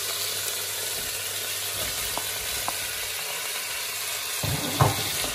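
Diced potatoes and onion sizzling steadily in hot oil in a metal pot, with a few light clicks of a wooden spoon and a louder knock and scrape near the end as the vegetables are stirred.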